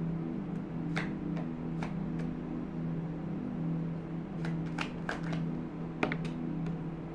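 Tarot cards being handled and flipped: a scattered series of about ten sharp card snaps and flicks, most of them in the second half, over a steady low droning hum.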